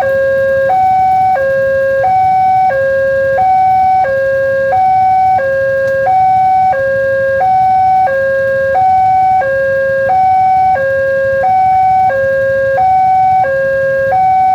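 Railway level-crossing warning siren alternating steadily between a high and a low tone, each held about two-thirds of a second. It signals that a train is approaching and the crossing is closed.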